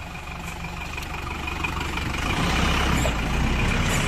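A passing vehicle's engine, a steady low hum that grows louder as it approaches.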